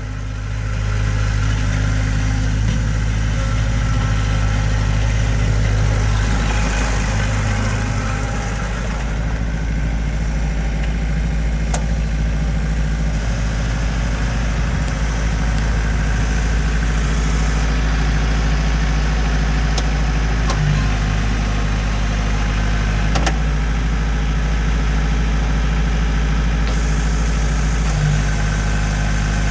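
Kubota B3300SU compact tractor's three-cylinder diesel engine running steadily at idle, with a slight dip in speed about eight seconds in and a few light clicks.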